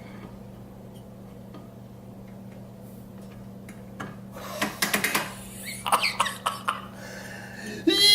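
Scattered light metal clicks and clinks as small outboard lower-unit parts are handled and fitted, over a steady low hum. Near the end a man's voice breaks into a loud, drawn-out shout.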